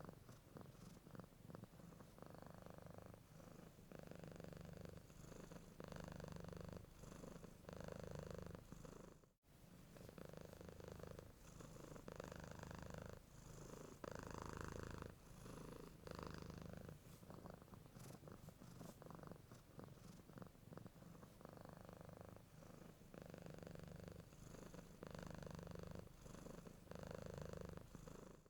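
Domestic cat purring softly in an even rhythm of breath cycles, roughly one a second. The purr drops out for a moment about nine seconds in.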